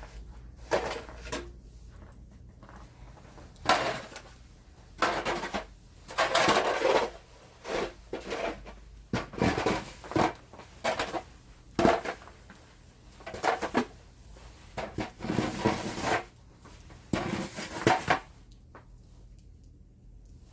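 Snow shovel scraping along pavement and scooping snow, in short irregular strokes about a second apart.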